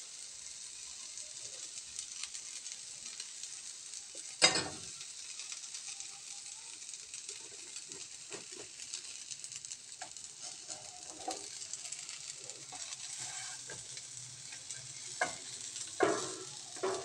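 Diced eggplant frying in oil in a non-stick pan, a steady sizzling hiss. A sharp knock comes about four seconds in, and a couple of knocks near the end as the pan is tipped and the fried pieces slide into a bowl.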